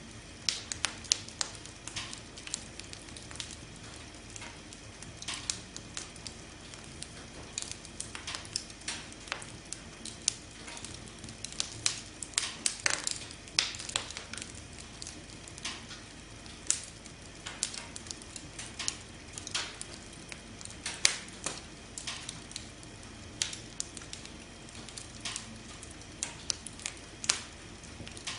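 Wood campfire burning, with frequent sharp, irregular crackles and pops over a low steady hiss.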